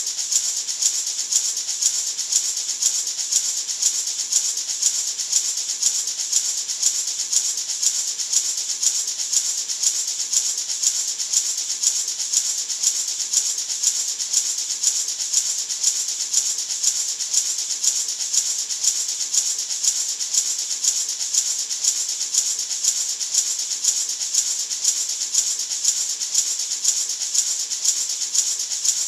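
Gourd maraca shaken steadily in an even rhythm, about two shakes a second, its seeds making a continuous high rattling hiss.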